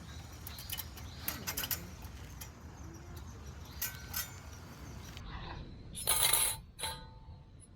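Sheet-metal wood stove parts clinking and scraping as they are handled, with a louder scrape about six seconds in followed by short metallic rings.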